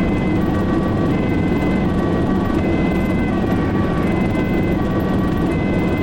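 Ambulance two-tone siren switching between a high and a low note about every three-quarters of a second. It is heard from inside the vehicle over steady engine and road noise while driving under emergency lights and siren.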